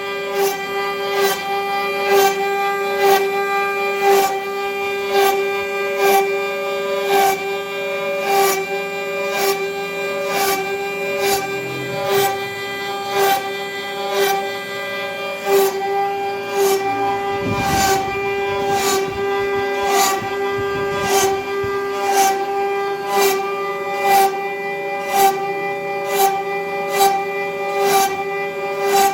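CNC wood router spindle running at a steady high whine while carving wood, with short sharp ticks about twice a second as the bit cuts.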